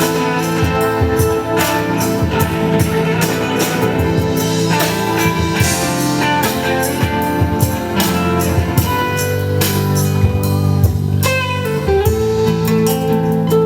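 Live band music: plucked and strummed guitar over a steady drum beat.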